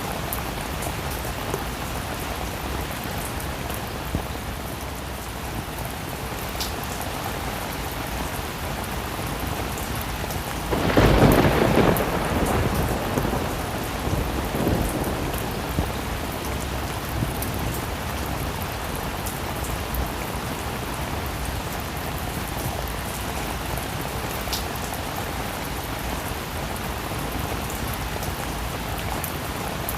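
Heavy rain falling steadily, with a rumble of thunder swelling about eleven seconds in and fading away over a few seconds.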